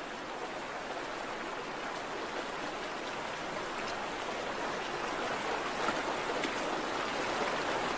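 Salmon stream running over rocks: a steady rush of water that grows slightly louder toward the end, with a couple of faint clicks about six seconds in.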